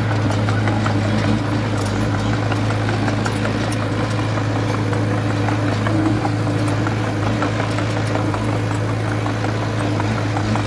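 Komatsu D20A small bulldozer's diesel engine running steadily at an even speed, with faint scattered ticks over the hum.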